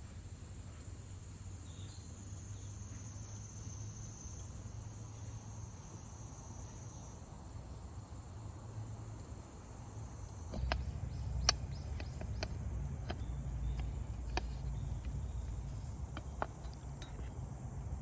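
Insects trill steadily at a high pitch. From about ten seconds in, a low rumble starts with scattered, irregular clicks and knocks over it.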